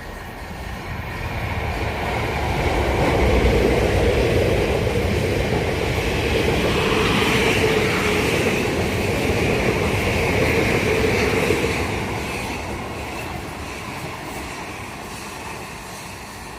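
South Western Railway third-rail electric train passing by. It builds up over the first few seconds, stays loud with a steady rumble and a ringing wheel-and-rail tone, then fades away from about twelve seconds in.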